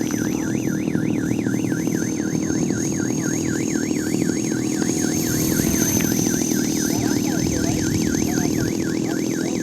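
Small electric 450-size RC helicopter running in flight, a steady buzz from its rotor and motor with a thin high whine. A continuous warbling alarm-like tone wobbles up and down about four times a second throughout.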